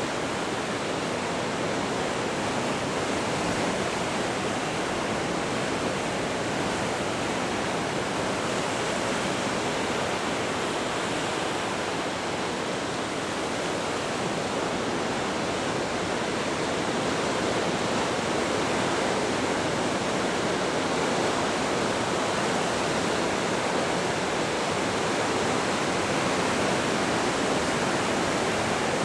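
Pacific surf breaking below a coastal bluff, heard as a steady, unbroken rush of wave noise.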